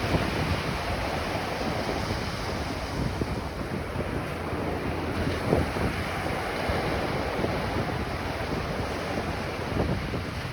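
Ocean waves washing onto a beach in a steady rush of surf, with wind buffeting the microphone.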